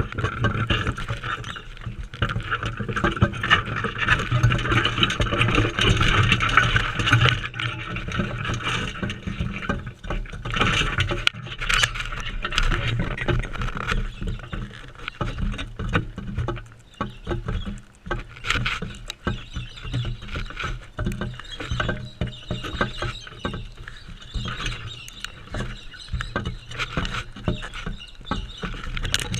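Crimson rosellas feeding right at the camera: a busy string of pecks, taps and seed-cracking clicks, with a rustling hiss that is strongest in the first third.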